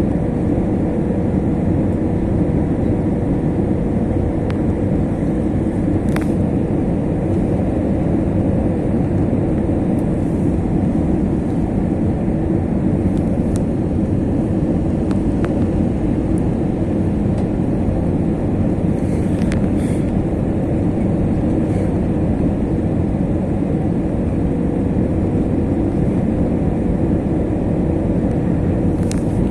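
Steady cabin noise of an Airbus A321 airliner in flight or on the ground, engine and airflow noise heard from inside the passenger cabin, with a faint steady hum and a few small clicks.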